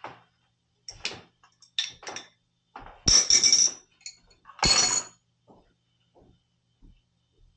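Metal tools and parts clinking and scraping as they are handled: a series of separate clinks, the two loudest about three and four and a half seconds in, with a bright ring.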